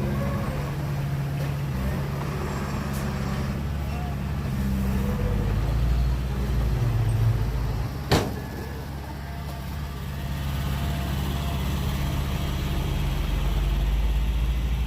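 Heavy diesel engines of earthmoving machines running steadily, a deep drone. Slightly past the middle comes a single sharp bang, the loudest sound.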